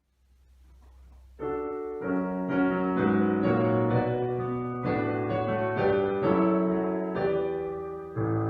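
Piano playing the opening of a song, the chords coming in about a second and a half in after a low hum.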